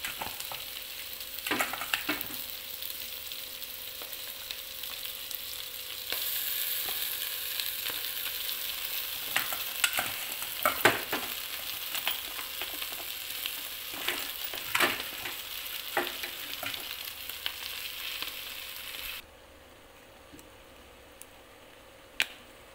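Noodles and shredded cabbage sizzling in a hot nonstick pot, with a stirring utensil scraping and knocking against the pan at intervals. The sizzle gets louder about six seconds in and cuts off suddenly about three-quarters of the way through.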